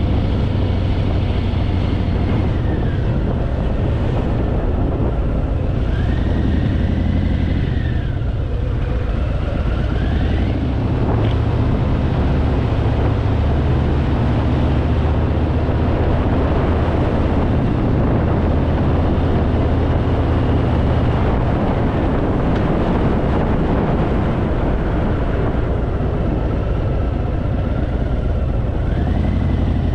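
Harley-Davidson Fat Boy's V-twin engine running steadily under way as the motorcycle is ridden, with a few gliding rises and falls in pitch.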